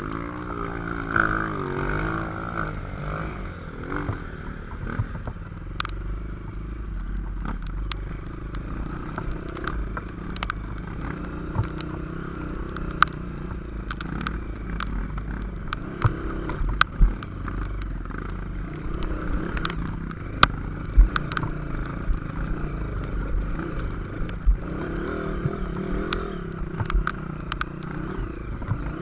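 Motorcycle engine running steadily while riding, its pitch shifting in the first few seconds, with scattered clattering knocks throughout.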